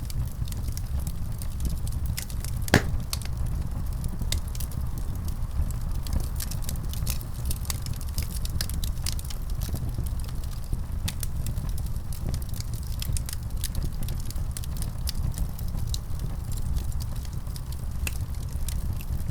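Wood fire crackling in a fireplace: frequent small sharp pops over a steady low rumble, with one louder pop about three seconds in.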